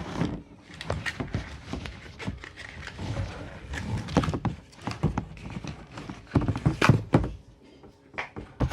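Irregular knocks, thunks and rustling as a vacuum cleaner hose is pulled out of its cardboard box and packaging.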